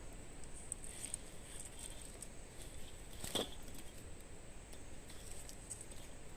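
Wood campfire burning with faint, scattered crackles and one louder pop about three seconds in.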